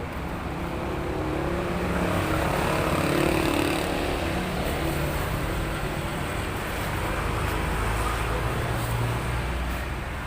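An engine running steadily, with a low hum that swells slightly a few seconds in.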